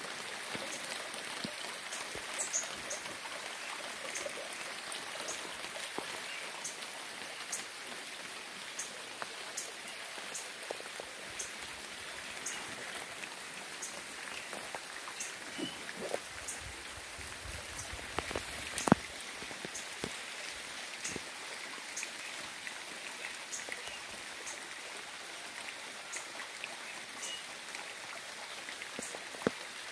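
Steady rain falling, with individual drops ticking and dripping throughout and one louder drip or splat a little under two-thirds of the way through.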